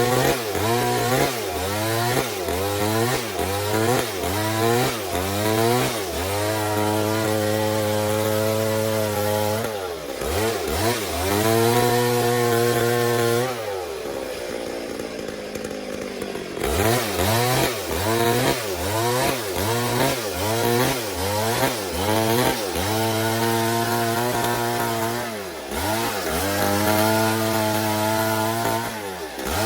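Stihl MS 382 two-stroke chainsaw running under load while ripping a log, its revs repeatedly dipping and recovering about one and a half times a second. It holds steady at high revs for stretches, and drops into a rougher, lower sound for a couple of seconds near the middle.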